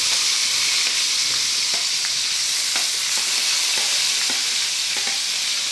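Chopped tomatoes sizzling loudly in hot oil in a pan just after being tipped in, a steady frying hiss with a few light ticks of a steel ladle.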